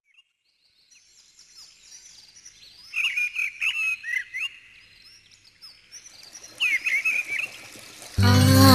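Birds chirping and calling, with bursts of quick chirps about three seconds in and again near seven seconds. Music starts abruptly near the end and is louder than the birds.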